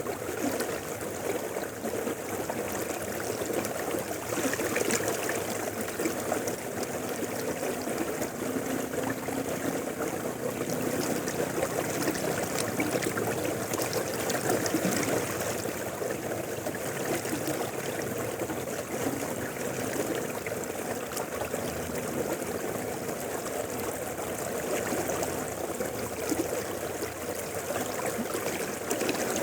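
River water flowing steadily, a continuous rush and babble that swells and eases gently every few seconds.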